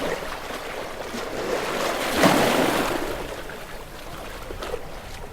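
Gentle waves washing onto a shore: a wave surges up and breaks a little over two seconds in, then drains back with a fizzing hiss.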